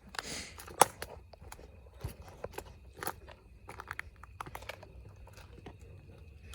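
Footsteps crunching irregularly over dry leaves and twigs on a forest trail, with a sharper snap about a second in.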